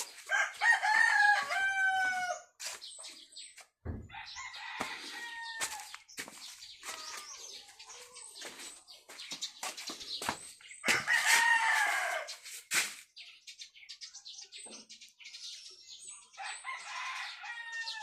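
Rooster crowing: four long calls, the loudest near the start and about eleven seconds in, with short clucks and clicks between them.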